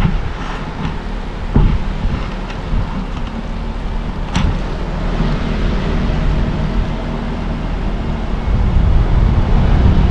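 Car driving on a mountain road: steady low rumble of road and engine noise, with a couple of short knocks from bumps about one and a half and four and a half seconds in.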